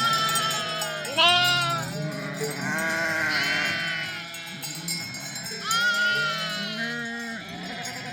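A flock of sheep bleating, many calls at different pitches overlapping, with louder nearby bleats at the start, about a second in, near 3 s and near 6 s.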